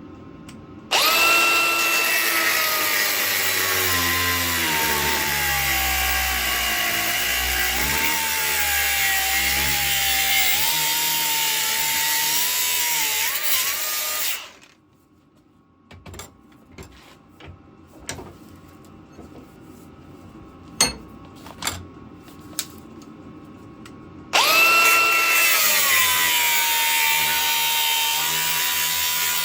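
Angle grinder cutting steel flat bar: its motor whine starts about a second in and drops in pitch as the disc bites, then cuts off around halfway. A few light knocks and clicks follow, and the grinder starts again near the end.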